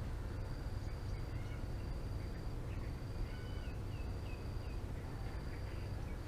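Outdoor nature ambience over a steady low rumble: a thin, high insect-like tone sounding in repeated stretches of about a second, and a few faint, short bird chirps in the middle.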